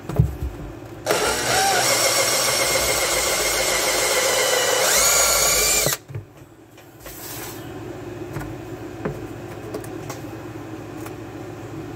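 Power drill running in one long pull of about five seconds; its pitch rises just before it stops suddenly.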